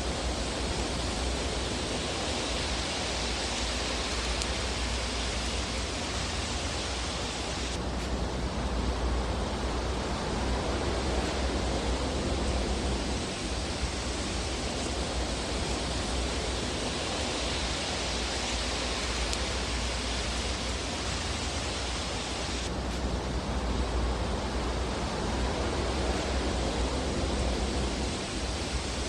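Fireplace ambience: a steady rushing, hiss-like fire noise without distinct crackles or pops. Its texture shifts abruptly about eight seconds in and again about fifteen seconds later.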